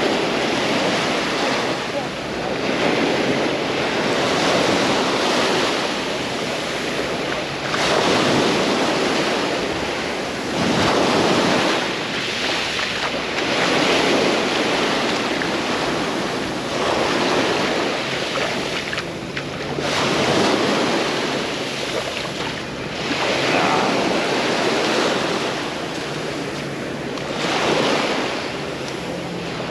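Sea waves breaking and washing up on the beach, the surf swelling and easing every three to four seconds.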